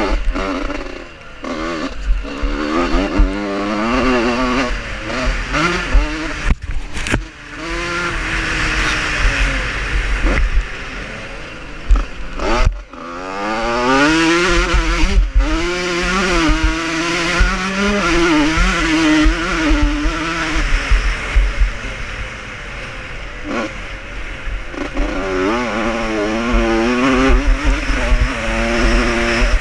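Vintage motocross motorcycles racing, their engines revving up and dropping back repeatedly as several bikes pass, with the notes overlapping.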